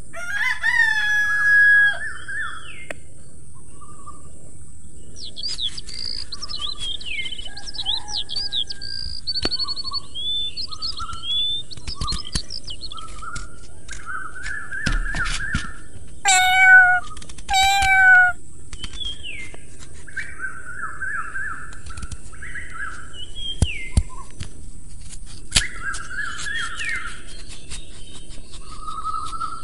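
Several birds chirping and singing, with quick trills and short whistled calls and two louder falling whistles about two-thirds of the way through, over a steady high hiss. A few sharp taps stand out here and there.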